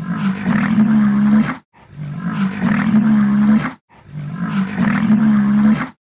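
A large animal's long, low call, the same call heard three times, each about a second and a half long and cut off abruptly.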